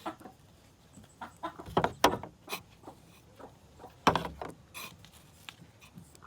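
Hens clucking in short separate calls, with a few sharp knocks and clatters, the loudest about 2 s and 4 s in.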